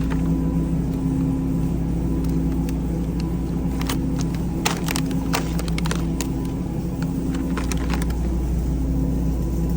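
Steady low hum and rumble of supermarket background noise, with a few light clicks about four to six seconds in.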